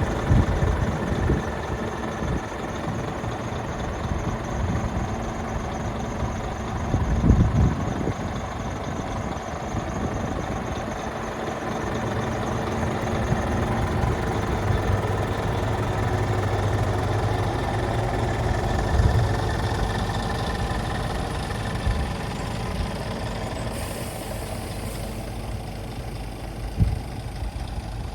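Scania G480 truck's 13-litre inline-six diesel engine idling steadily, with a few short low thumps.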